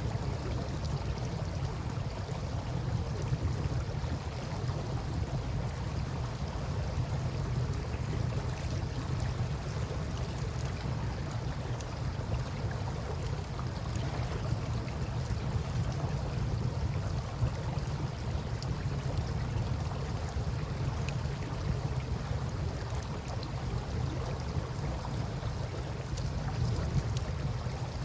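Steady rush of flowing river water with a low rumble, and a few faint crackles from a campfire.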